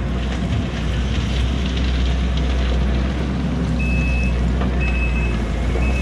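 Kubota SVL90-2 compact track loader's diesel engine running steadily. Partway through, its reversing alarm starts beeping about once a second as it backs up.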